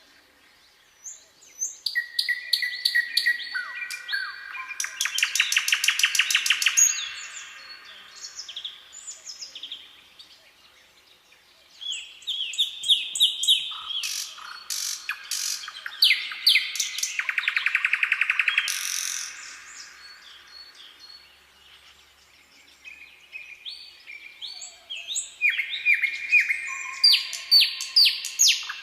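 Songbirds singing in three bouts of rapid chirps and fast trills, with quieter gaps between the bouts.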